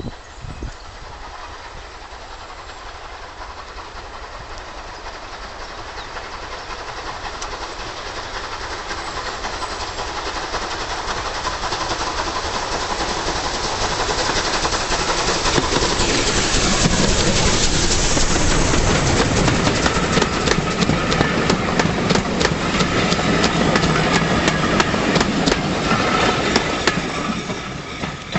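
Rebuilt Bulleid Battle of Britain class steam locomotive Sir Archibald Sinclair and its train approaching, growing steadily louder until it passes about two-thirds of the way in. The carriages follow with a rapid clickety-clack of wheels over the rail joints, fading slightly near the end.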